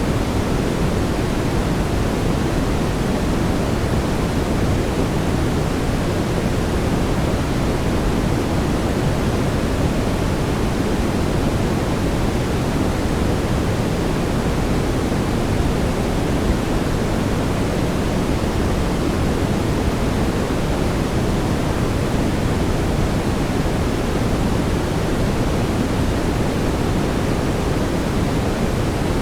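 Steady synthetic brown noise: an even, deep rushing hiss, heaviest in the low end, with no change in level.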